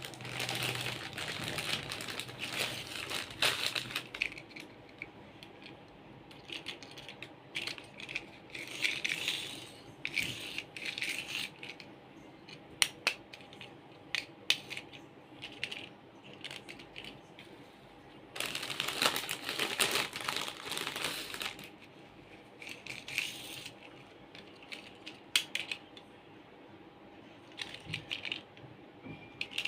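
Plastic toy vehicles being handled: irregular clicks, rattles and short bursts of scraping. The longest bursts come near the start, around ten seconds in, and about two-thirds of the way through, under a faint steady hum.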